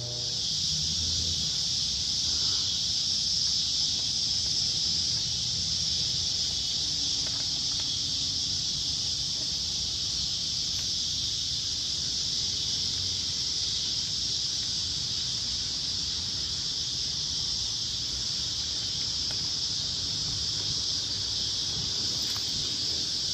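Summer insect chorus: a steady, unbroken high-pitched drone.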